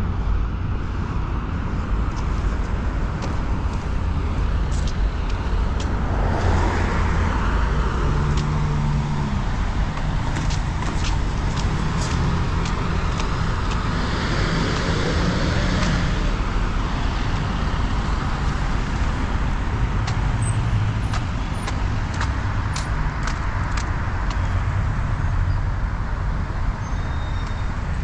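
Road traffic: cars passing close by on a city street, the two loudest passes about six seconds in and about fifteen seconds in, over a steady low rumble.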